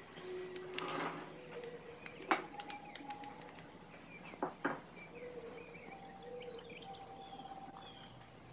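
Birds chirping in the background, the chirps clearer in the second half, with a few sharp clicks and knocks: the loudest about two seconds in, then a quick pair near the middle. Faint held notes sound underneath.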